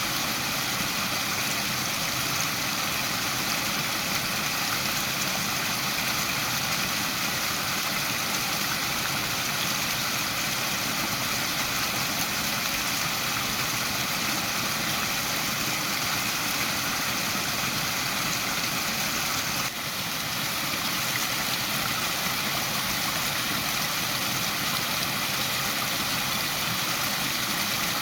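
Waterfall rushing in a steady, unbroken roar of falling water, with a brief dip in level about two-thirds of the way through.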